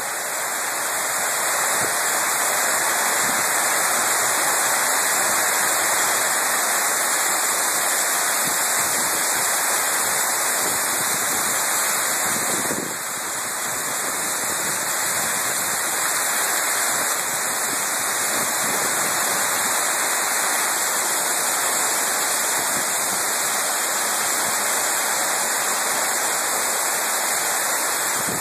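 Heavy rain pouring down in a steady, dense downpour. It eases slightly for a moment about halfway through.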